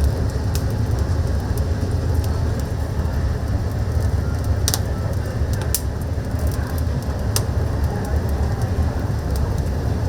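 Oak firewood fire crackling, with a few sharp pops, over a steady low rumble.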